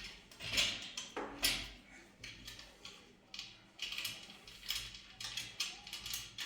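Irregular knocking and scraping of objects being handled, a few sharp rustling noises a second or so apart.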